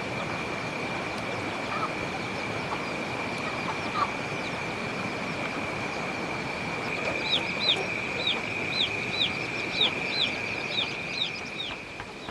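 A bird calling in a quick run of about a dozen short falling chirps in the second half, over a steady high-pitched whine and a constant hiss.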